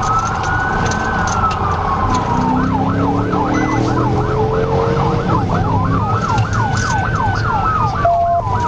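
Police car siren sounding over the patrol car's engine and road noise during a pursuit, going from a slow wail to a fast yelp for a few seconds and back to a slow wail.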